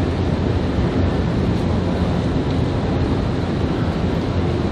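Nankai 9000 series electric commuter train pulling out of the station: a steady low rumble with general station noise.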